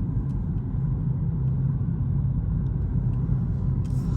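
Car engine running at low speed, a steady low rumble heard from inside the cabin as the car is parked up.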